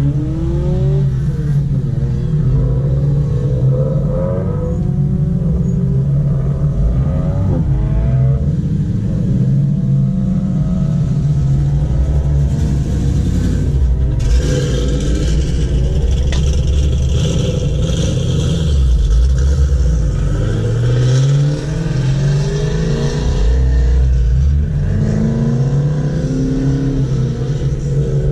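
Several petrol car engines nearby idling and being revved, heard from inside a stationary car; their pitches rise and fall and overlap over a steady low hum.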